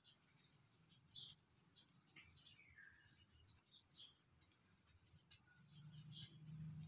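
Faint bird chirps in the background: short high calls every second or so and a couple of falling whistles, over a low hum that grows louder near the end.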